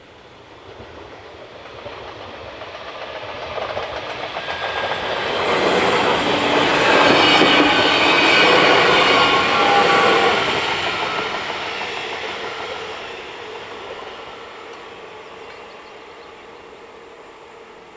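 X52 (Bombardier Regina) electric multiple unit passing over a level crossing. Its rolling noise builds over about six seconds, is loudest for several seconds as the train goes by, then fades away as it recedes.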